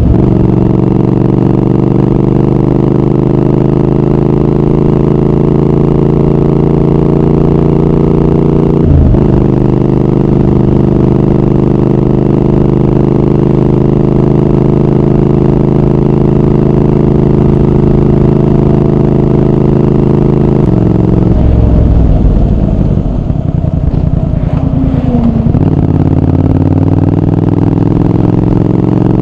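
Triumph Speed Twin 1200's parallel-twin engine and exhaust under way, its pitch climbing steadily as it pulls through a gear. About nine seconds in comes a quick upshift, and it pulls again. About two-thirds of the way through the throttle closes and the revs drop, then it picks up once more near the end.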